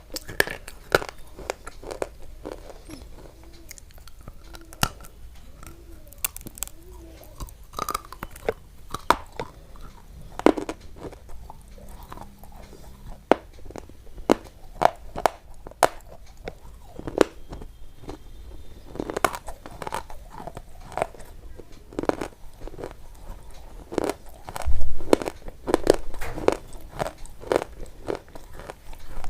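Close-up crunching and chewing: someone biting into and chewing crisp food right at the microphone, in irregular sharp crunches with the loudest bite about 25 seconds in.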